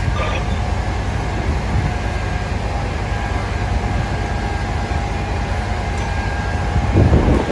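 Steady low rumble of vehicle engines and street traffic, with a faint steady whine over it. A gust of wind hits the microphone near the end.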